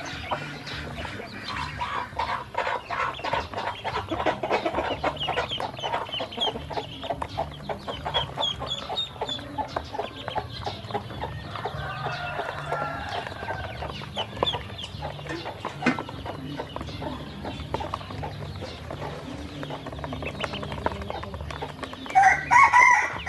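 A flock of baby ducklings peeping, with dense fast clicking and pecking as they eat and dabble at feed and water. A louder, lower call sounds near the end.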